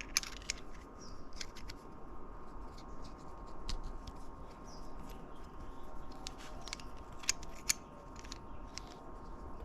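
Irregular light clicks and taps of small metal parts being handled and fitted on a manual transmission's shift mechanism, with two sharper clicks about seven and a half seconds in.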